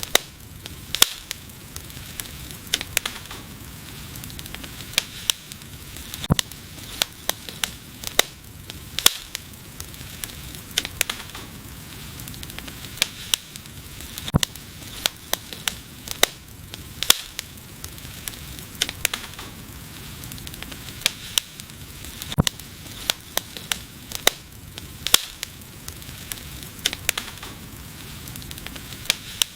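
Wood fire crackling, with frequent irregular sharp pops and snaps over a steady soft hiss.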